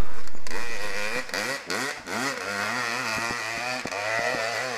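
Dirt bike engine revving up and down over and over, its pitch wavering, as a rider works the throttle up a steep hill climb.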